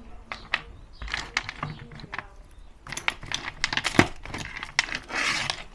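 Dry hazelnuts in their shells clicking and clinking as they are handled: a run of sharp irregular clicks, the loudest about four seconds in, with a short rustle near the end.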